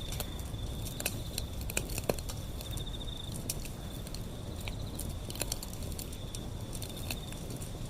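Wood fire burning with a low steady rumble and frequent sharp crackles and pops. A steady, high pulsing trill runs behind it.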